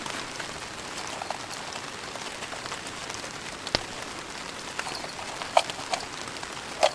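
Heavy rain pattering steadily on a tarp overhead, with a few sharp clicks and taps in the second half.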